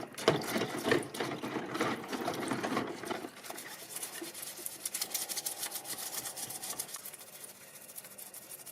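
Rapid scraping and rubbing of a tool working on a small model car's parts. It is coarser and busier for the first three seconds or so, then turns to a finer, higher rasping.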